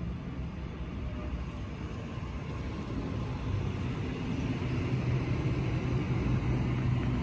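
A train approaching: a steady rumble with a low hum that slowly grows louder.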